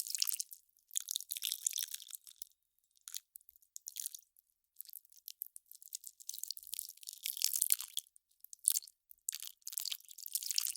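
Melting ice crackling and popping in irregular clusters of fine, crisp crackles, with short silent gaps between them.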